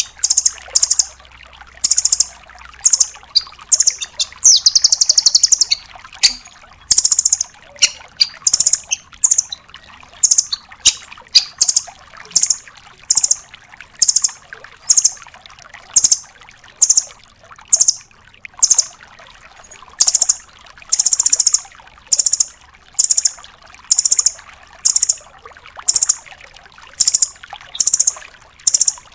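Rambatan (nuthatch) calling: short, high, sharp notes repeated about once a second, some in quick pairs, with one longer rapid trill about five seconds in.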